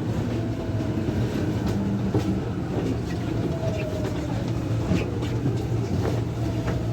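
Lyon Metro Line B rubber-tyred train running, heard inside the car: a steady rumble with a low hum, a faint whine sliding slowly down in pitch several times, and a few light clicks and knocks.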